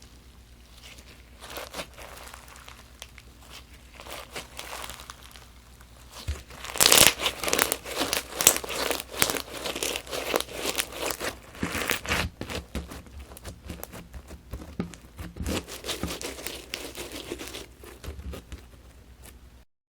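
Crunch slime packed with sprinkles being squeezed and pressed, crackling and crunching. Sparse and quiet for the first several seconds, then louder and much busier, then cutting off suddenly near the end.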